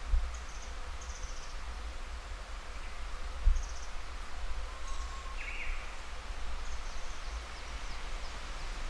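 Outdoor woodland ambience: a steady low rumble with a couple of dull thumps, one just after the start and one about three and a half seconds in. Faint, short, high-pitched chirps sound through it, with one clearer chirp a little past halfway.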